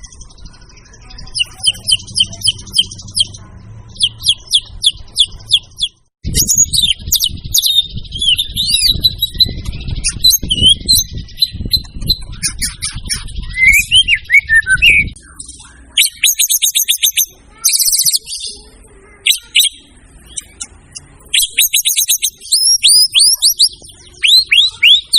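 White-rumped shama (murai batu) in full song: fast runs of sharp repeated whistled notes, trills and rising and falling phrases, loud and almost unbroken, with a brief dropout about six seconds in.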